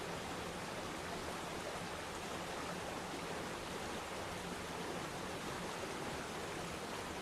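Waterfall splashing into a pool: a steady, even rush of falling water.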